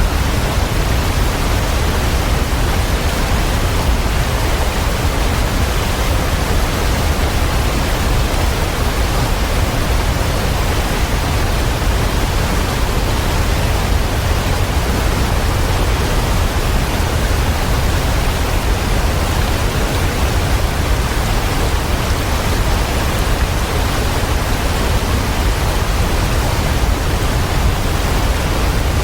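Waterfall rushing steadily: an even, unchanging noise of falling water, heaviest in the low end.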